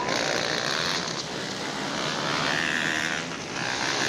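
Motocross motorcycle engines revving during a race, the pitch rising and falling.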